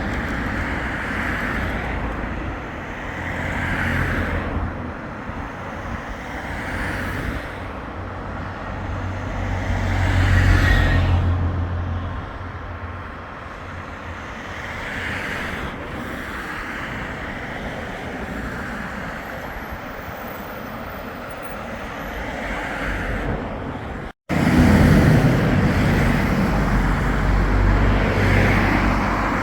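Road traffic noise with vehicles passing, one swelling up and fading about ten seconds in. The sound cuts out for a moment about 24 seconds in, then returns louder.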